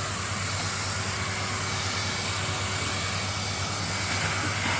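Henry canister vacuum cleaner's motor running steadily with an even whooshing rush of air and a faint whine.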